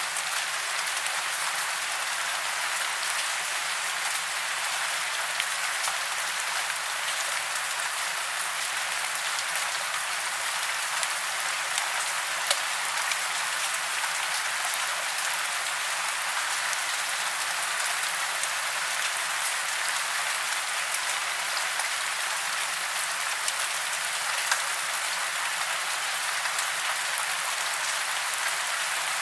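Steady rain falling in a forest: an even hiss with scattered sharper drop ticks.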